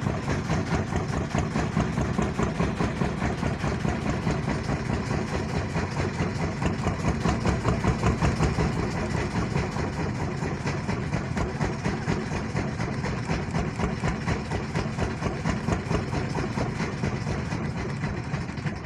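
Small propeller aircraft's engine running steadily, heard from inside the cabin, with a fast, even pulsing throb.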